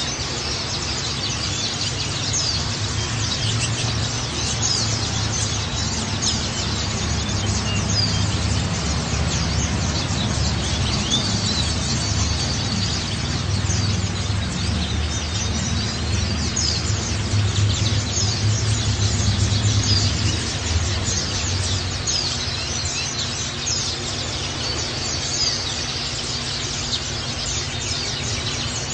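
Pleci (oriental white-eyes) chirping and twittering continuously in quick, high, overlapping calls, over a steady low rumble that swells through the middle and then eases off.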